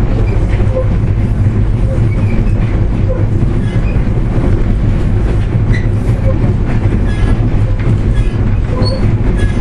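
VIA Rail passenger train rolling along the track, a steady loud rumble of wheels on rails and running gear heard from aboard the moving train.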